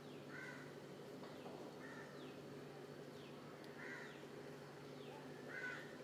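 Birds calling over a steady low hum: a harsh call repeats four times, about every two seconds, with short high notes falling in pitch between the calls.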